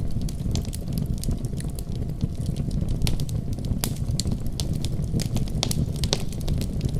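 Wood fire crackling, with frequent irregular sharp pops, over a steady low rumble of a snowstorm.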